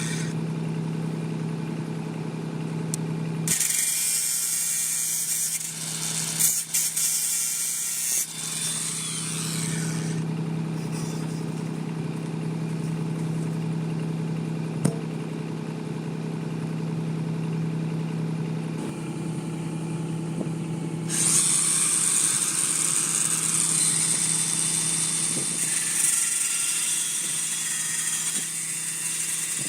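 Wind rushing over the microphone in gusts that come and go, over a steady low hum.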